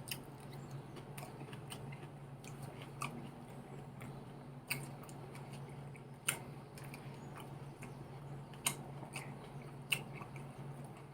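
Close-miked mouth sounds of a person chewing and biting salad, with a handful of short sharp crunches or clicks scattered through. A steady low hum runs underneath.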